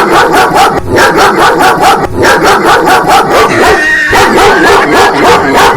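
Recorded dog barking played back loud: a rapid, unbroken run of barks, about five a second, used as a fake dog.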